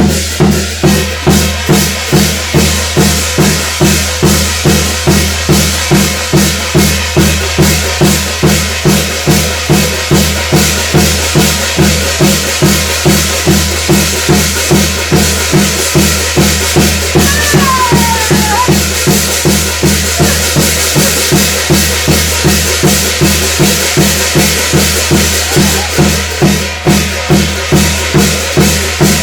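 Korean shamanic gut ritual percussion: a drum beaten in a steady, even pulse of about two strokes a second, with a constant metallic jingle above it. A short wavering high note sounds about halfway through.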